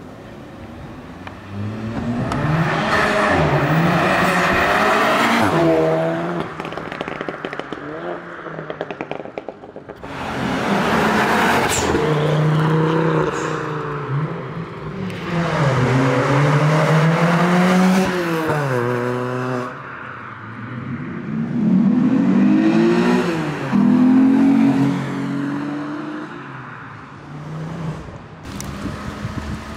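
Several cars accelerating hard away one after another, their engines revving up through the gears, with each pitch climb cut by a drop at a gear change.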